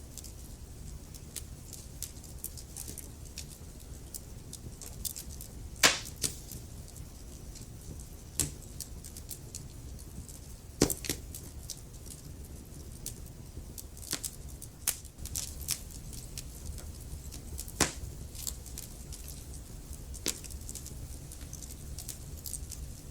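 Wood fire crackling in a fireplace: a steady low rumble of flames under scattered sharp crackles, with a few louder pops about 6, 11 and 18 seconds in.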